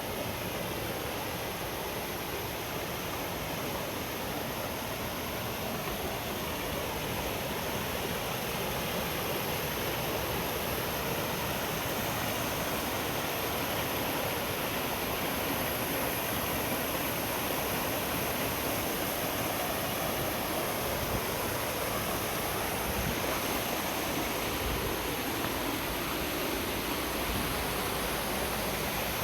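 Rushing water of a mountain stream tumbling through a rocky gorge, a steady, full rush of sound with no let-up.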